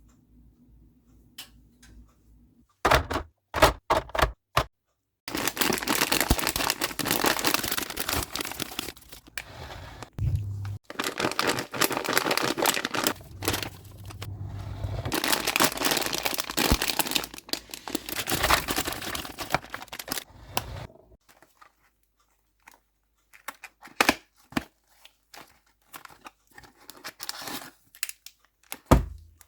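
Plastic sweet packets crinkling and being torn open in a long spell of dense crackling, with separate sharp clicks and taps before it and again near the end.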